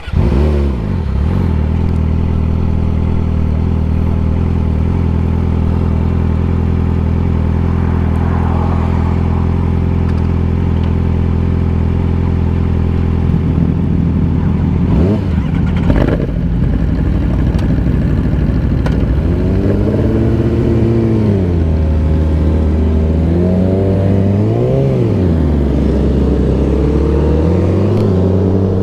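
A 1000cc sport motorcycle engine running loud at a steady pitch. From about twenty seconds in it revs up and down several times, the pitch climbing and dropping as the bike accelerates and slows.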